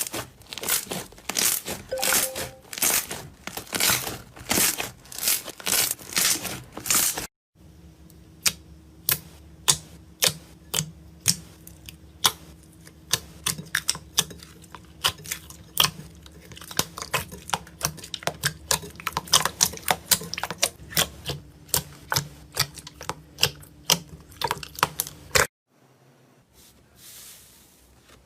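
Slime being squeezed and poked by hand, giving rapid crackling and popping clicks. About seven seconds in the sound cuts to sharper, more scattered pops over a low steady hum, and it cuts again near the end to faint rustling.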